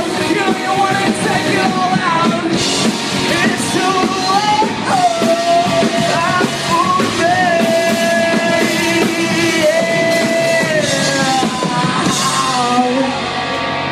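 Rock band playing live with a singer over it: loud electric guitars, bass and drums with crashing cymbals, the vocal holding long notes.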